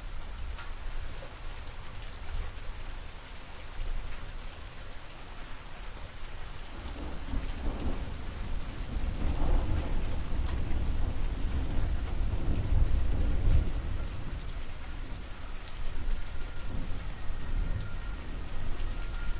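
Steady rain with rolling thunder: a low rumble swells in about a third of the way through, peaks a little past halfway and fades, with a smaller rumble near the end.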